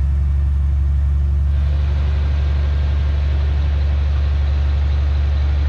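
Heavy diesel engine of earthmoving machinery running steadily with a deep drone, with a harsher noise joining in about a second and a half in.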